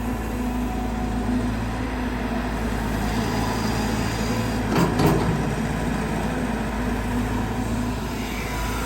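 Caterpillar 320GX excavator's four-cylinder Cat C4.4 diesel and hydraulic pump running steadily under working load, with a brief louder burst about five seconds in.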